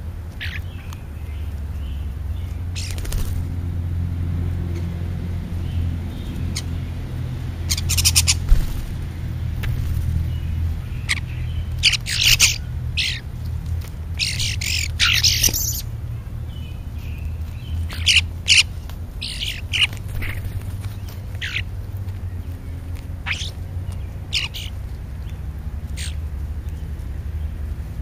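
Starlings and grackles feeding close by, giving short squawks and chirps scattered irregularly, with a loud cluster near the middle, over a steady low rumble.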